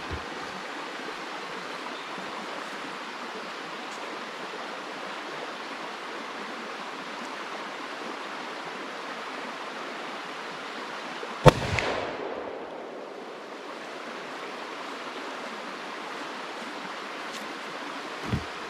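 A single .44 Magnum gunshot about eleven seconds in: one sharp crack with a short echoing tail, over a steady rushing background noise.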